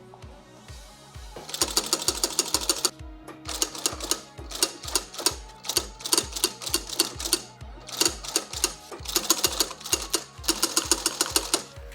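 Sewing machine stitching leather, the pieces of a baseball glove's lining being sewn together: runs of rapid needle strokes that stop and restart several times with short pauses. Background music with a steady beat plays throughout.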